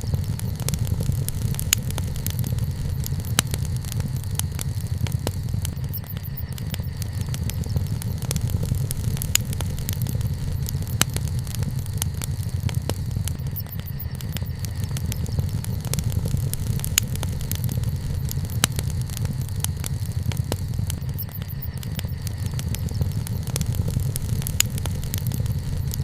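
Wood fire (takibi) burning: frequent sharp crackles and pops, scattered irregularly over a steady low rumble.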